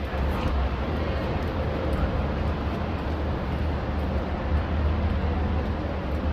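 Steady low rumble of vehicle noise, an even hum with no distinct events.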